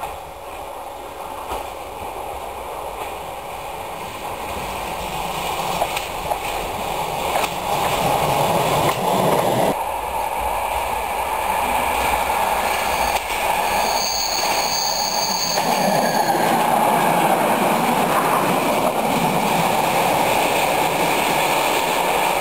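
Diesel railcar approaching out of a tunnel and passing close by, the engine and the wheels on the rails growing steadily louder and then staying loud. A brief high squeal comes about two-thirds of the way through.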